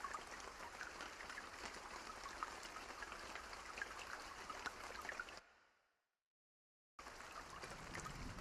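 Soft steady rain mixed with the scattered small pops and crackles of a campfire. About five and a half seconds in it fades quickly to complete silence for about a second and a half, then the rain and crackling come back.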